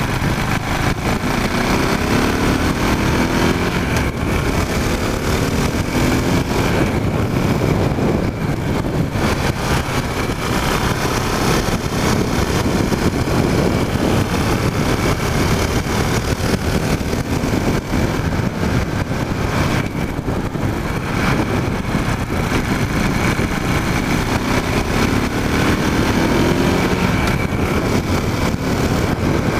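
KTM Duke motorcycle engine running under way, heard from a mount on the tank, over a steady rush of wind and road noise. The engine pitch rises a few seconds in and again near the end as the bike accelerates.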